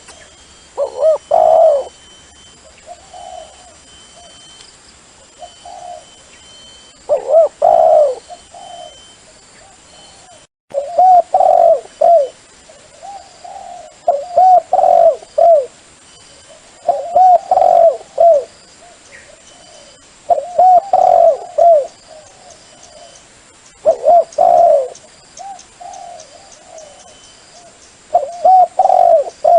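Dove cooing: loud phrases of several coos about every three to four seconds, with softer coos between them. This is a recorded dove call used to lure wild doves to a decoy.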